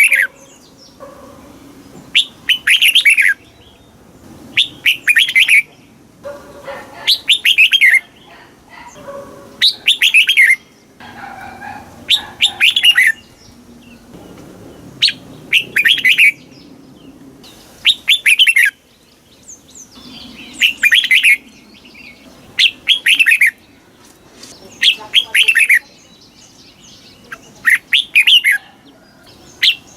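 Red-whiskered bulbul singing: short, loud phrases of quick falling notes, repeated every two to three seconds.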